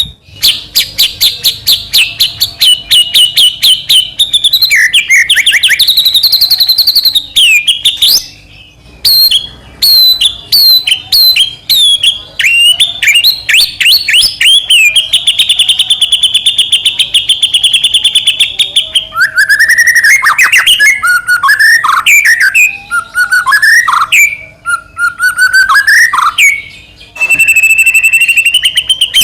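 White-rumped shama singing loudly and continuously in a varied song. It runs fast trills of rapidly repeated notes, including a long steady rattle near the middle, then switches to sweeping, rising and falling whistled notes in the latter part, with only brief pauses.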